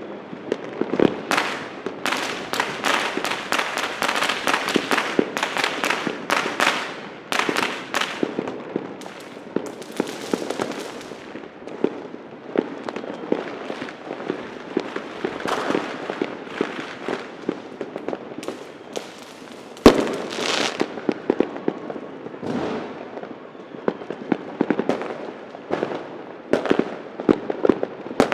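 Fireworks and firecrackers going off in a dense, irregular succession of sharp bangs and crackling, with one especially loud bang about twenty seconds in.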